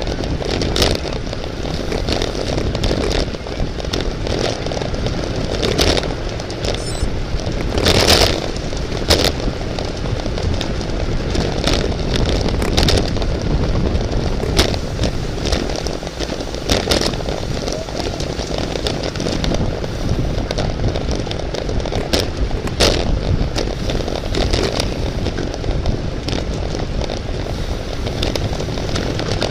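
Steady loud rushing wind and road noise of a bicycle race, with scattered sharp clicks and crackles; the loudest burst comes about eight seconds in.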